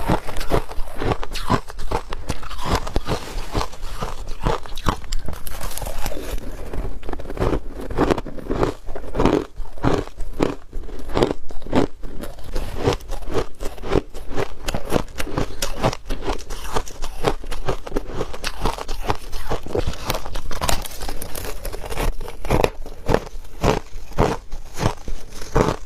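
A person biting and chewing hard ice, with a steady run of sharp, irregular crunches, several a second.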